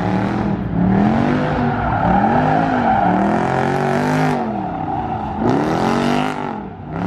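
Car engine revving up and down about four times in a row, over a steady tyre screech from a car sliding.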